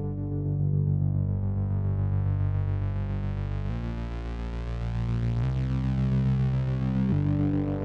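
Synthesizer jam: sustained low synth notes under a rapid single-note arpeggio, the bass notes shifting about halfway through and twice more before the end.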